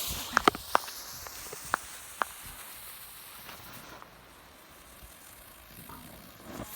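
A small cheap firework hissing as it sprays, with five or six sharp crackling pops in the first two seconds or so; the hiss then fades and dies out, a weak showing.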